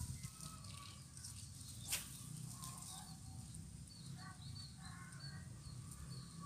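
Faint outdoor birdsong: short scattered chirps and calls over a steady low rumble, with one sharp click about two seconds in.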